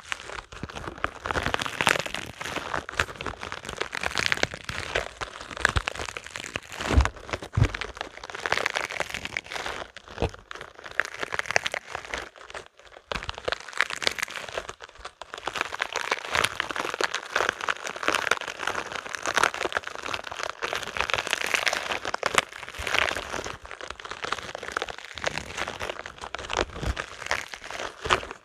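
Spiky rubber balls handled and squeezed, a dense, continuous crackling and crinkling, with a couple of brief low knocks about seven seconds in.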